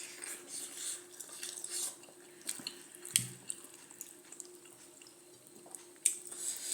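Close-miked eating sounds: wet chewing and slurping, with a few sharp clicks.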